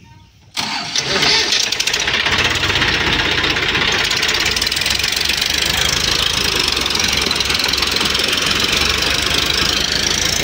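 Tractor diesel engine running loudly and steadily, coming in abruptly about half a second in.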